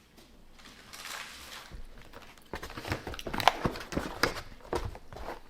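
Close-up eating sounds of a sausage pizza slice being chewed: quiet at first, then irregular wet clicks and smacks of chewing from about halfway in.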